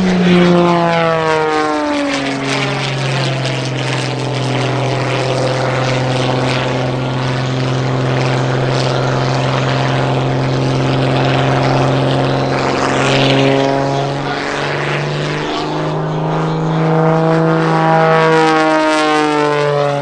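Wolf Pitts Pro aerobatic biplane's piston engine and propeller at high power during a low pass. The note drops sharply about two seconds in as the plane goes by, holds steady, then rises and falls again near the end as it comes back past.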